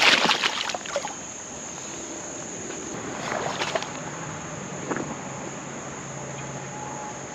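Water splashing briefly as a small bass is released back into a creek, then a steady high insect drone over the creek's flowing water, with a few faint splashes.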